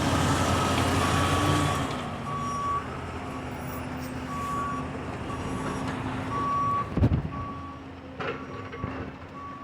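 A vehicle's backup alarm beeping about once a second, a single high tone, over the low rumble of an engine that is heavier in the first two seconds. A sharp knock comes about seven seconds in.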